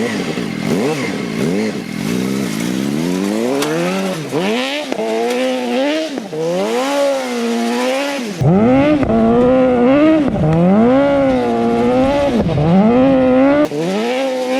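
Sportbike engine of a crosskart being driven hard, its pitch repeatedly rising and falling as it revs up and eases off. It gets louder about eight seconds in.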